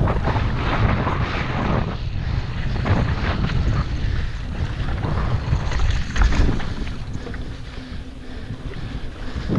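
Wind buffeting the microphone of a camera on a mountain bike riding a dirt trail, with a steady low rumble and frequent small knocks and rattles from the bike over rough ground.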